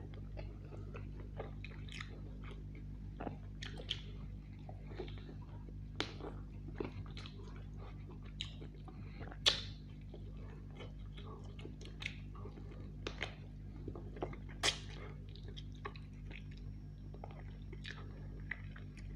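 Close-miked chewing and biting of roast chicken: wet mouth smacks and clicks at an uneven pace, with two louder sharp smacks about nine and a half and fourteen and a half seconds in, over a steady low hum.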